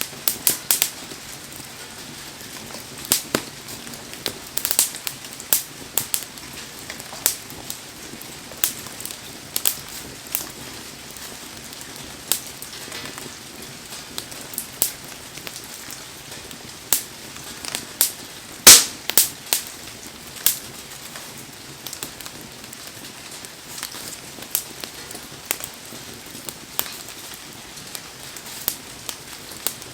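Wood campfire crackling, with sharp pops at irregular intervals, the loudest a little past halfway, over the steady hiss of heavy rain.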